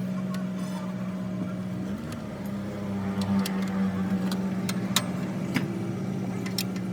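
An engine running steadily with a low, even hum that wavers briefly about two seconds in, while a few sharp clicks and taps sound over it.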